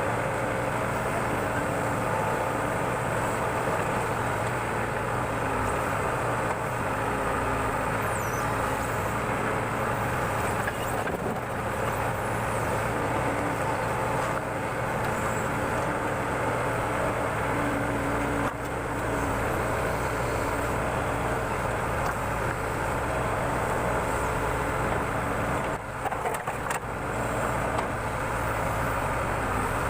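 Backhoe loader's diesel engine running steadily under work, with a couple of brief dips in level.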